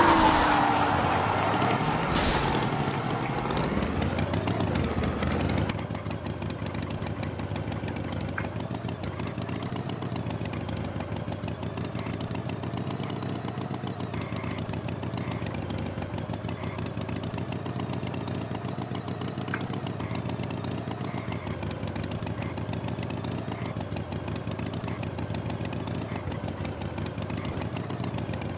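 A tractor engine idling steadily. Near the start, a loud falling swoop-like tone sounds, with a second, shorter one about two seconds in.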